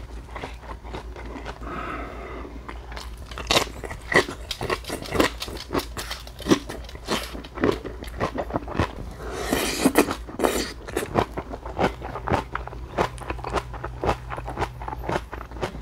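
Close-miked chewing and crunching of napa cabbage kimchi, crisp bites at irregular intervals, with a louder spell of crunching about ten seconds in.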